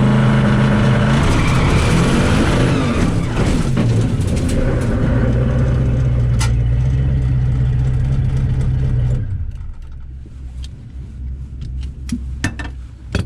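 A loud drag-car engine running at a steady low speed, its pitch wavering briefly early on; about nine seconds in it drops away, leaving scattered clicks and ticks.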